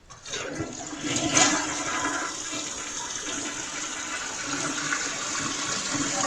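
Toilet being flushed: rushing water starts just after the handle is pressed, is loudest a little over a second in, then runs on as a steady gush.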